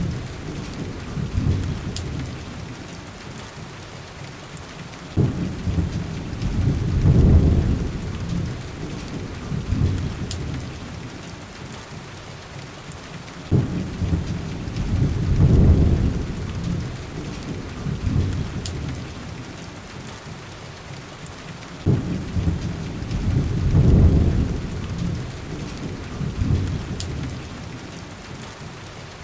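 Steady heavy rain with deep rumbles of thunder about every eight seconds, each starting abruptly, swelling and dying away. A few faint sharp ticks sound now and then.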